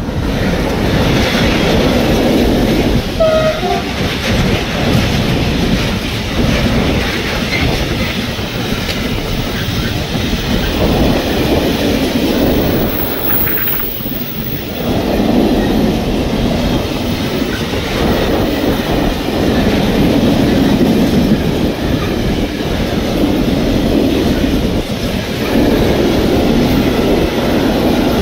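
Freight train of open coal wagons behind a Siemens Vectron electric locomotive rolling past close by: a loud, steady rumble of wheels on the rails, easing briefly about halfway through.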